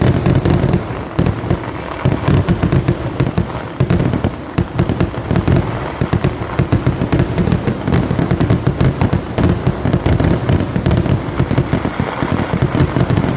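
Kerala vedikettu fireworks going off as a dense, continuous barrage of loud bangs, many a second with no let-up.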